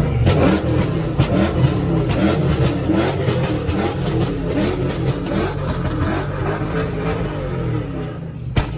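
Car engines revving repeatedly, the pitch rising and falling in short sweeps, with frequent sharp cracks and one louder crack near the end.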